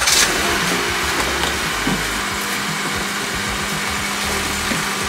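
Electric pressure washer running steadily, its motor humming under the rush of the water spray.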